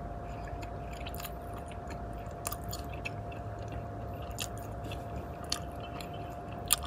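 Person chewing a piece of deep-fried battered root, ginseng or bellflower root, with scattered small crisp crunches. A faint steady hum runs underneath.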